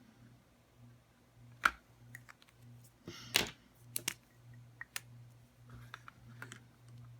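Scattered small clicks and taps of Sharpie markers and their caps against a clear plastic phone case during colouring, with the sharpest click about a second and a half in and a short scratchy rub a little after three seconds. A low steady hum runs underneath.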